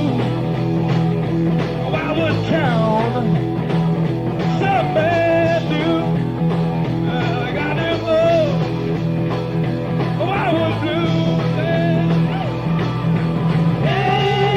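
Rock band playing live, a blues-rock song on an old bootleg recording, with a steady full band sound and bending melodic lines over sustained low notes.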